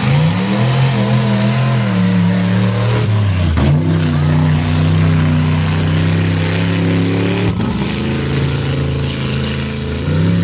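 A loud truck engine revving hard on a sand drag run. Its pitch climbs at the start, drops sharply about three and a half seconds in, holds steady, drops again near eight seconds and climbs again near the end.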